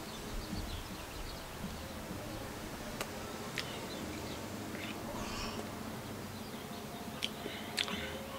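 Quiet outdoor background with faint bird chirps and a few light, sharp clicks.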